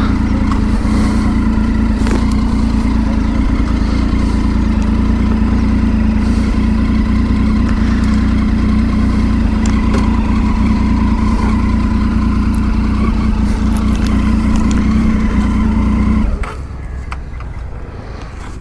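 Motorcycle engine running at a steady cruising speed with road and wind noise, a loud even drone that drops off sharply near the end.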